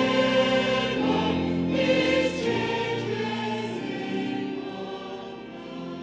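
A choir singing a hymn with sustained chords, fading out gradually over the last few seconds.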